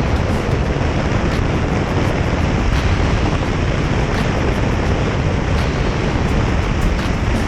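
Steady rush of wind on the microphone over the road noise of a moving vehicle.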